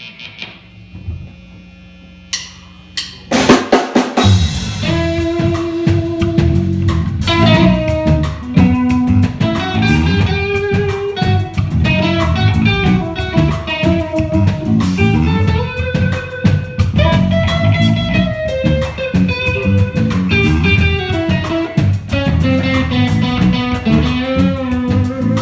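Live funk-rock band playing an instrumental intro. A low hum is heard for about three seconds, then drums, electric guitar and bass come in together loudly.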